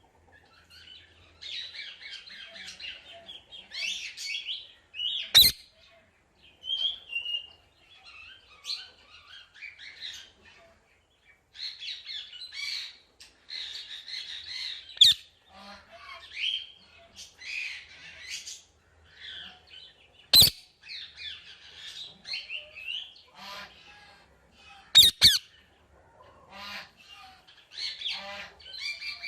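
A parrot chattering and squawking in bouts of rapid, high-pitched calls, broken by about five sharp clicks that are the loudest sounds.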